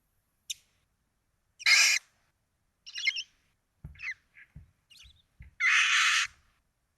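Barn owls calling in a nest box: harsh, hissing screech calls, a short one about two seconds in and a longer one near the end, with shorter raspy calls and a few faint chirps between. A few soft low thumps come in the middle.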